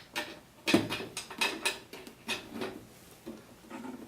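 Thumb screws being turned in to fasten a cover over a switchboard meter: a series of sharp clicks and light knocks, the loudest about a second in.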